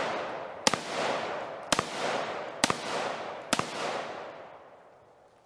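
Ruger AR-15 rifle in 5.56 firing four shots about a second apart, with a fifth at the very end. Each sharp report trails off in a long echo.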